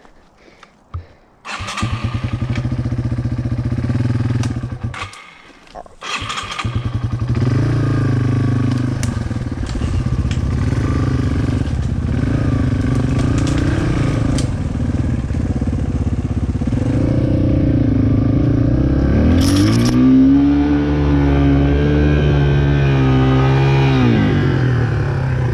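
Dirt bike engine starting, dying after a few seconds, then restarting and idling unevenly with small blips of throttle. About two-thirds of the way through it is revved up and held higher for several seconds before dropping back.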